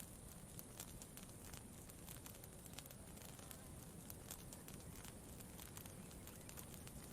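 Campfire crackling quietly: irregular small pops and snaps, several a second, over a low steady rumble.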